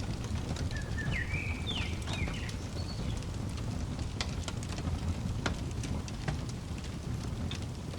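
Fireplace crackling: scattered sharp pops and snaps over a steady low rumble of the fire. About a second in, a bird gives a brief run of chirping, whistled notes.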